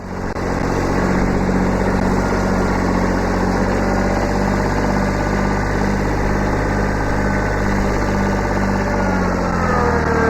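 Kubota B7100 compact tractor's three-cylinder diesel engine running steadily at a constant speed, its note shifting slightly near the end.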